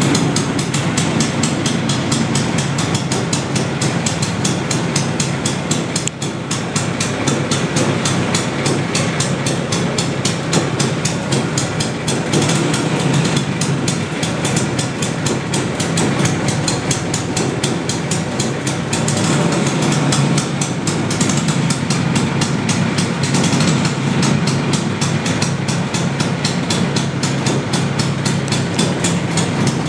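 Vespa P200 scooter's single-cylinder two-stroke engine running steadily with a fast, even firing pulse. The scooter is fully restored and runs in perfect condition.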